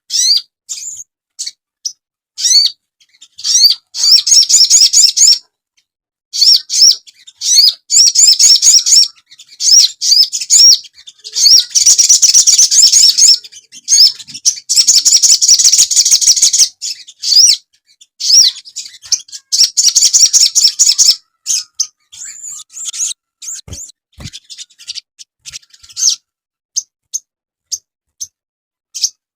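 Sogon bird calling in bursts of rapid, high-pitched chirps, many of them quick rising notes, each burst lasting a second or a few with short breaks between, thinning to scattered single chirps over the last several seconds. It is a masteran recording, used to lure wild birds and to train cage birds to sing.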